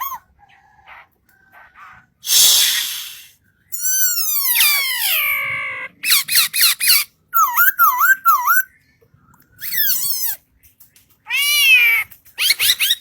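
A bird calling in a varied string of notes: a harsh rasping note, a long falling call, a quick run of clicks, then three swooping up-and-down notes, and more falling calls near the end.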